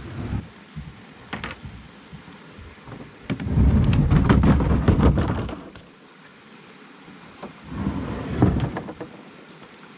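Wind buffeting the microphone in low gusts, a long one about three seconds in and a shorter one near eight seconds, with scattered knocks and a steady hiss between them.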